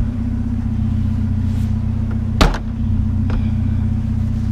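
Vehicle engine running steadily at a low, even hum, with one sharp knock about halfway through.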